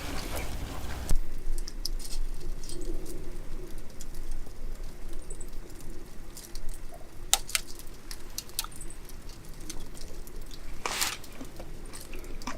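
A dove cooing low and faint, with scattered sharp snaps and crackles, two of them louder near the end.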